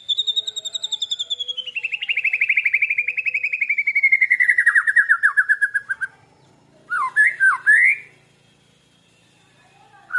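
White-rumped shama singing: a long, rapid, clear trill that slides steadily down in pitch for about six seconds, then after a short pause a quick burst of swooping whistled notes, with another beginning at the end.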